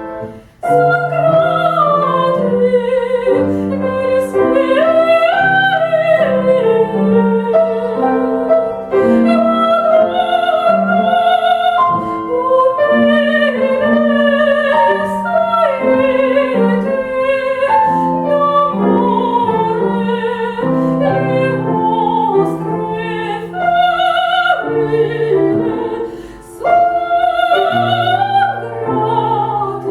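A female classical singer sings with vibrato, accompanied on a grand piano. The music breaks off for a moment near the end, then carries on.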